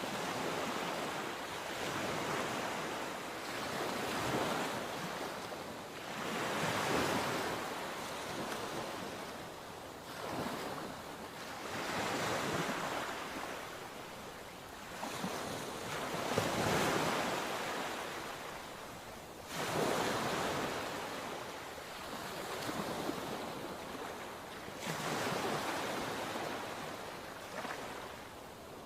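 Sea waves breaking and washing on the shore, a steady surf that swells and falls every few seconds, with wind on the microphone.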